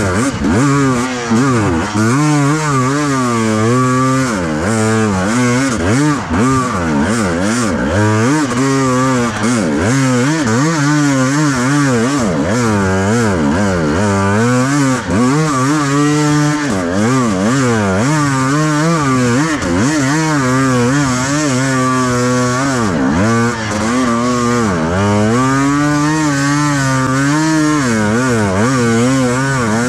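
Enduro motorcycle engine being ridden off-road, its revs rising and falling constantly with the throttle.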